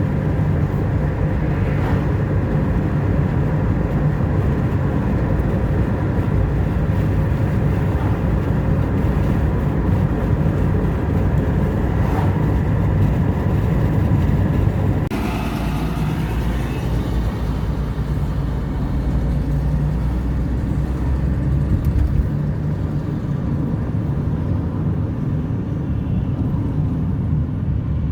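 Steady low rumble of a moving vehicle, changing character about fifteen seconds in.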